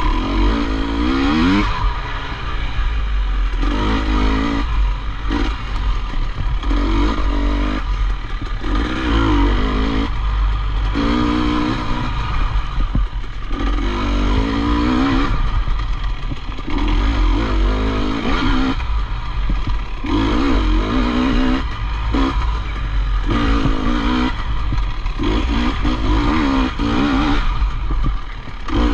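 Dirt bike engine being ridden hard, revving up in pitch and then backing off again and again, each burst of throttle lasting about one to two seconds, over a steady low rumble.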